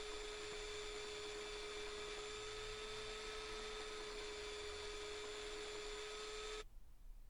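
Belt sander motor running steadily, a steady whine over an even hiss, cutting off abruptly about six and a half seconds in.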